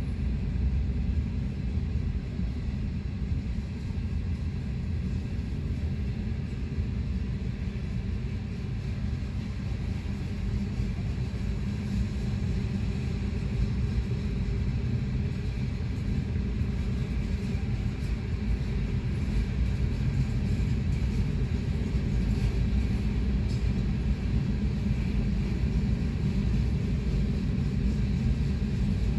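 Freight train cars rolling past, a steady low rumble of wheels on rail, heard from inside a car.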